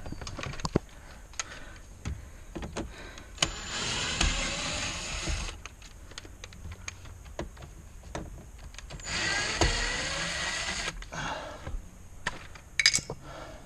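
A small electric power tool runs twice, about two seconds each time, with sharp clicks and knocks of tools and parts being handled in between.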